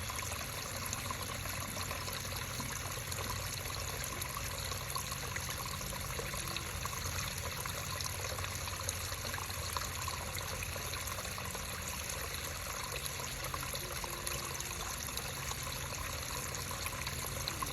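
Creek water trickling and running steadily.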